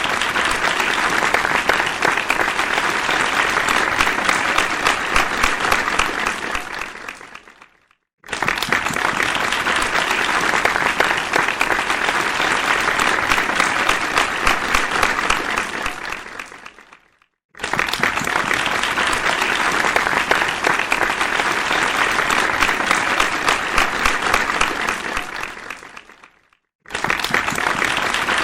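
Audience applause: dense clapping that fades away, breaks off for a moment of silence and then starts again suddenly at full strength, repeating about every nine seconds, three times.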